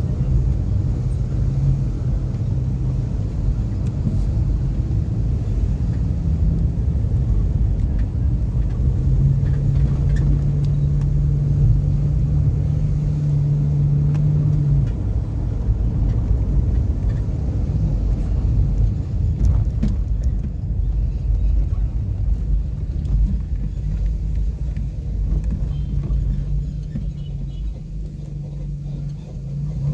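A car's engine and road rumble while driving: a steady low hum that shifts pitch as the engine speed changes.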